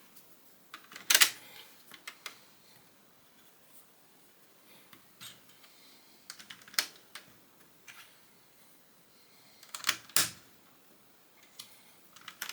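Plastic Lego bricks being handled and pressed together: sharp clicks and snaps at irregular intervals, the loudest about a second in, around seven seconds and around ten seconds, with lighter taps of pieces in between.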